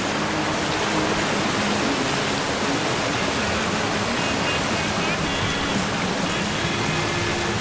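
Steady rush of creek water, with faint background music notes laid over it.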